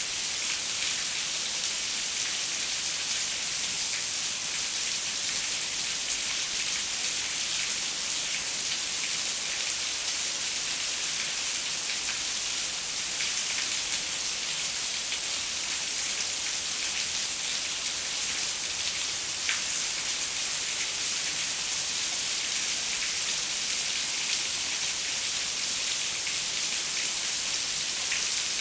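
Steady rain falling on a window pane: an even hiss of rainfall, bright and high, with scattered individual drop ticks and no pauses or changes.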